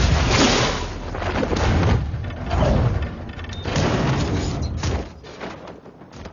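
Action-film sound effects: a run of heavy booms and thuds with deep rumble, mixed with music, dying away about five seconds in.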